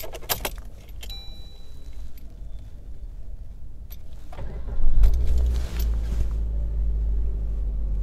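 Ignition key jangling and turning in a Maruti Suzuki Baleno, with a short electronic beep about a second in. About five seconds in, the 1.2-litre four-cylinder petrol engine cranks, catches and settles into a steady idle, still cold and warming up, heard from inside the cabin.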